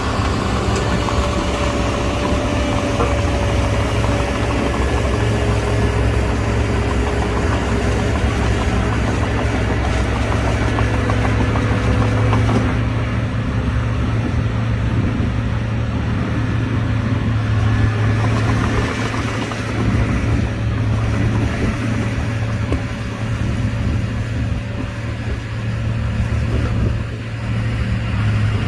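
Diesel engine of heavy earthmoving equipment running steadily with a deep drone. The hiss on top eases off about halfway through.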